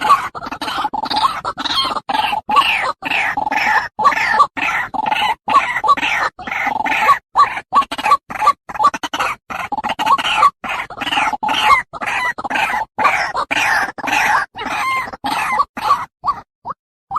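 White-breasted waterhen calls from an edited lure recording: rapid repeated rough call notes cut by short gaps, about three a second, breaking off into a few short fragments about a second before the end.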